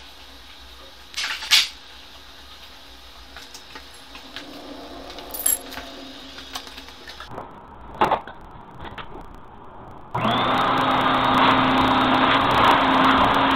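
Scattered clatters and knocks of tools being handled, then about ten seconds in an electric power tool starts and runs steadily with a constant hum.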